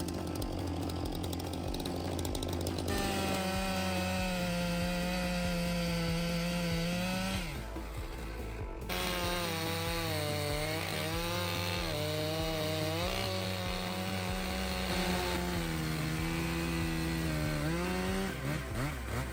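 Stihl MS 661 two-stroke chainsaw cutting through timber at high revs, its engine pitch sagging as the chain loads up in the wood and recovering between cuts. It drops off briefly near the middle, then goes back into the cut.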